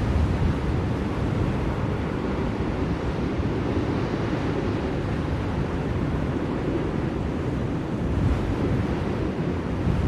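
Blizzard wind blowing steadily, a deep, even rushing noise that swells slightly now and then.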